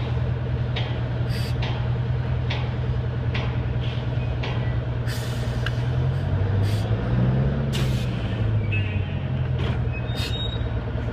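Detroit Diesel engine of an American Hoist & Derrick 9530 crane running, revving up and easing back down between about six and nine seconds in. Short, sharp clicks recur every second or so over the engine.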